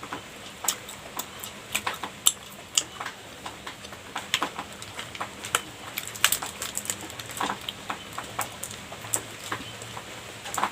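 Close-up eating sounds of a soft cream pastry being chewed: irregular wet mouth clicks and lip smacks, several a second.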